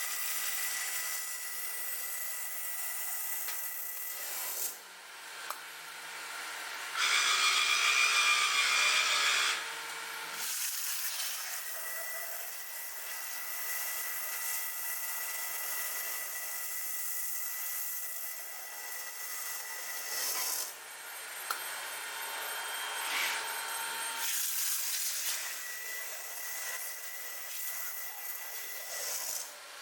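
A CNC stone-working machine (bridge saw and waterjet) cutting and machining stone, with a steady high whine. The sound changes abruptly several times, and a louder, noisier stretch runs from about seven to nine and a half seconds in.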